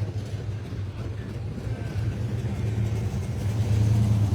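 A car engine running with a steady low rumble, getting somewhat louder near the end.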